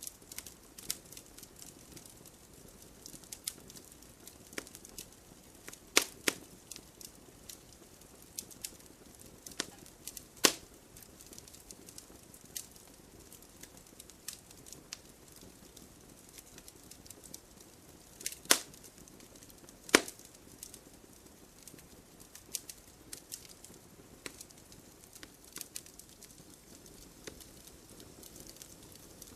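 Campfire of burning wood crackling, with frequent small snaps and a few sharp, louder pops, over a faint steady hiss.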